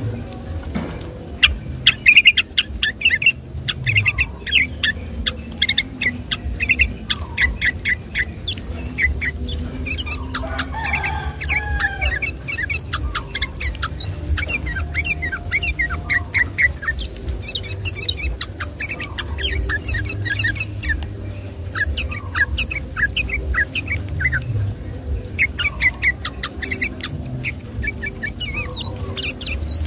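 Sooty-headed bulbul (trucukan) singing long, fast runs of short chirping notes, repeated phrase after phrase with only brief gaps, over a steady low rumble.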